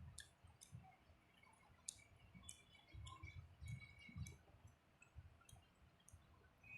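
Faint, wet mouth clicks and smacks of a person chewing food, with soft low chewing pulses underneath.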